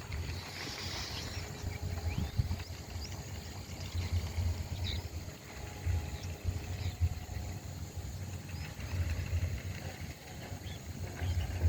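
Outdoor natural ambience: a steady low rumble with scattered short bird chirps.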